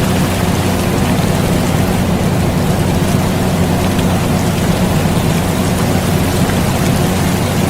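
Steady air conditioner hum mixed with continuous rain, an even, unchanging wash of sound.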